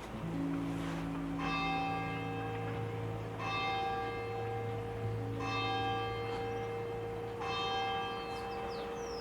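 Church bell tolling, struck about every two seconds with a long ringing hum between strikes. Short falling bird chirps come in near the end.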